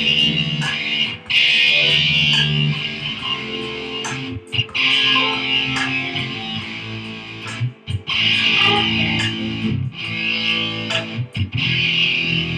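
Instrumental guitar music: a guitar plays chords in phrases, with short breaks between them.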